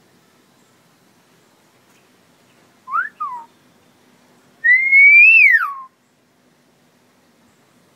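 A bird giving two clear whistled calls: a short rising-then-falling note pair about three seconds in, then a louder, longer whistle that climbs slowly and swoops steeply down.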